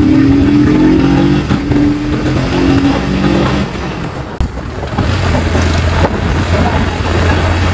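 Motorcycle engine running while riding, with wind rushing over the microphone; about four seconds in its note drops and settles into a low, steady hum.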